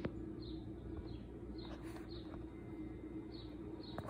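A small bird chirping over and over, short high chirps every half second to a second, over a steady low hum.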